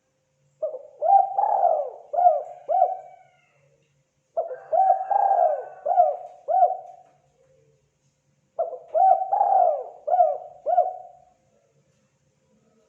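Spotted dove cooing: three phrases of about five short, mellow coos each, a few seconds apart.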